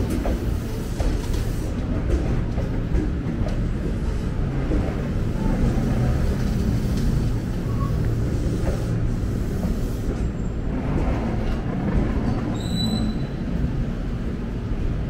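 Electric commuter train running past a station platform, a continuous heavy rumble of wheels and motors with brief high wheel squeals near the end.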